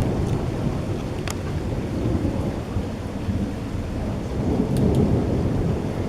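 Thunder rumbling on and on, deep and steady, with rain falling and a couple of sharp ticks of drops.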